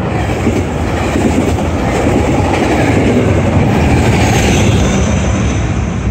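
NCTD Coaster commuter train crossing a wooden trestle bridge. It is loud from the start, with the wheels clattering over the rails and the diesel locomotive running. A thin high whine from the wheels comes in about four seconds in.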